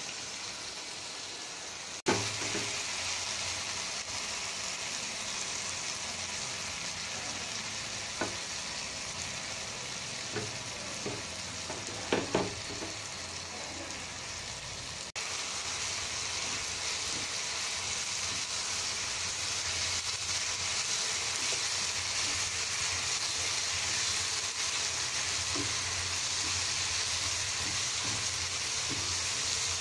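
Cut beans sizzling steadily as they fry in oil in a pan, stirred with a wooden spatula. The sizzle steps louder about two seconds in and again about halfway, and a few sharp knocks of the spatula against the pan come in the middle.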